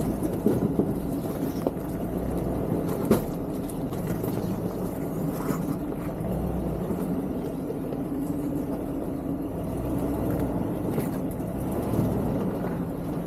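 Off-road 4x4 crawling over rock ledges in low range: a steady low engine hum with a few sharp knocks, the loudest about three seconds in, from the rig's tyres and underbody meeting rock.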